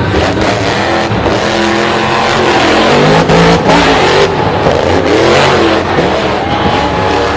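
High-performance engines revving hard, their pitch rising and falling again and again.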